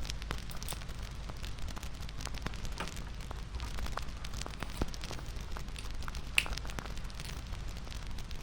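Wood fire crackling, with frequent sharp pops over a low steady rumble; one louder pop about six and a half seconds in.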